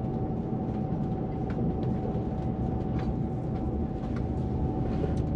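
Cabin noise inside a Transwa Prospector diesel railcar on the move: a steady low rumble with a constant mid-pitched whine, and a few faint clicks.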